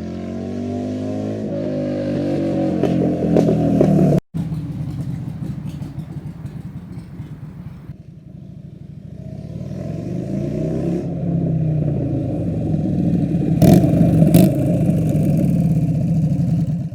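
Harley-Davidson Sportster V-twin running through a 2-into-1 aftermarket exhaust while the bike accelerates on the road: the engine pitch climbs, breaks off suddenly about four seconds in, then climbs again over several seconds, with two brief loud cracks near the top.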